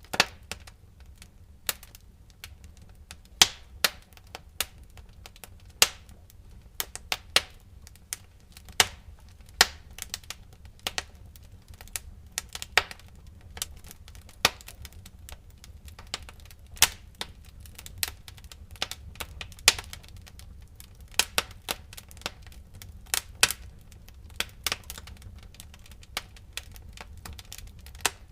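Wood fire crackling in a fireplace: irregular sharp pops and snaps, sometimes several a second, over a low steady rumble of the burning logs.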